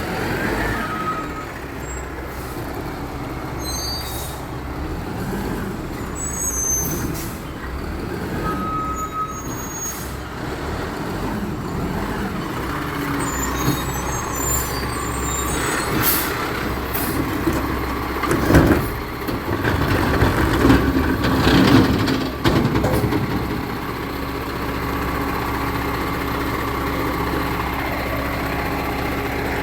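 Recycling truck's diesel engine running, with a run of loud clanks and clatter in the middle, then settling into a steady hum with a level tone near the end.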